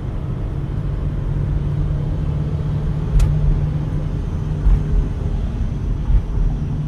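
Mitsubishi Pajero driving, heard from inside the cabin: a steady low engine and road rumble. There is a sharp click about three seconds in and a couple of short thumps later.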